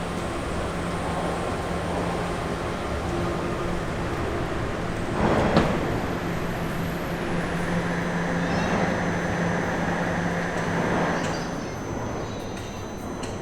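Bombardier Toronto Rocket subway train running, a steady noise with a low steady hum, and a sharp loud clatter about five seconds in. The sound eases off near the end.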